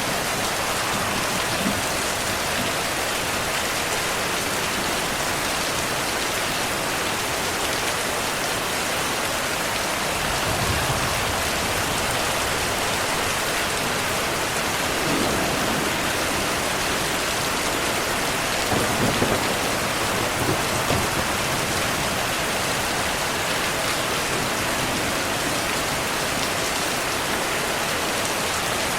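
Steady rain, an even hiss throughout, with low rumbles of distant thunder swelling up several times in the middle, the strongest about two-thirds of the way in.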